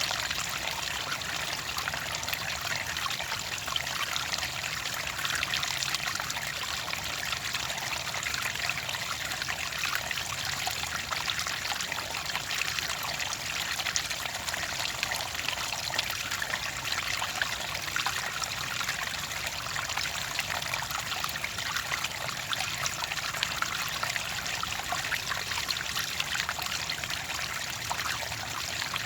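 Clear water trickling and pouring, a steady splashing flow with many small droplet sounds.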